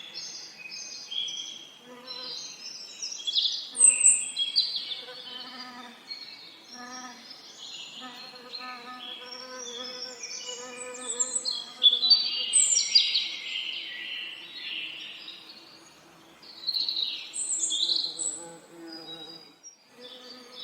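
Many songbirds singing and chirping over one another, with bees humming low beneath.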